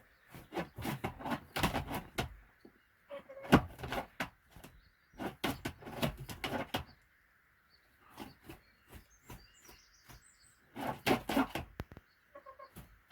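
A hen scratching and rustling through nesting bedding in four bursts of crackly scuffling with pauses between, as she rearranges her nest. Faint high bird chirps come in briefly in one of the pauses.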